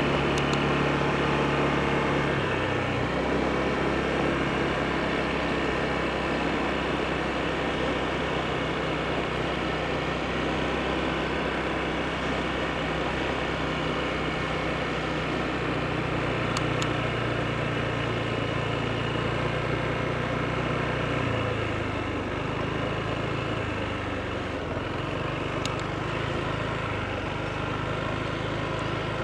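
Honda PCX scooter's single-cylinder four-stroke engine running under way, its pitch shifting with speed about two and a half seconds in and again about twenty seconds in, over a steady rush of wind and road noise.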